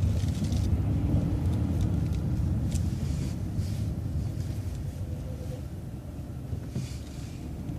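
City transit bus running on the road, a steady low rumble of engine and road noise that gradually quietens and then builds again near the end.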